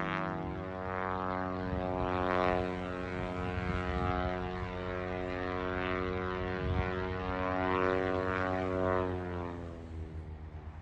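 Propeller airplane engine running with a steady drone, swelling and easing a few times, then fading away near the end.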